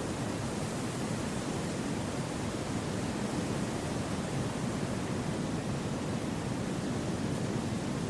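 Wind through a forest, a steady, even rushing noise, deepest in the low range, with no gusts, rustles or other sounds standing out.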